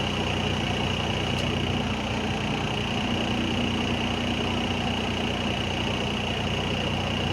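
An engine running steadily at an even, idle-like pace, with a constant low hum and no change in speed.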